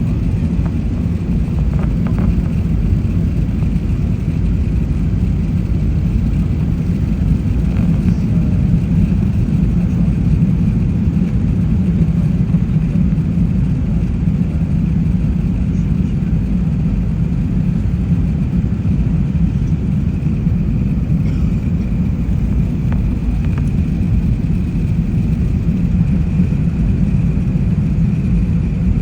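Airliner cabin noise in flight on approach: a steady low rumble of engines and airflow, with a faint steady high whine above it.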